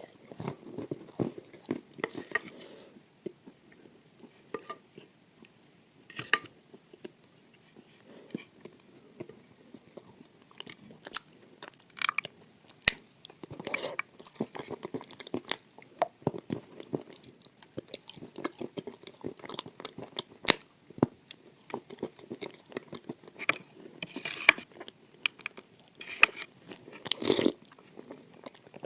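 Close-miked biting and chewing of crunchy food: irregular sharp crunches, with denser spells of chewing near the start, in the middle and near the end.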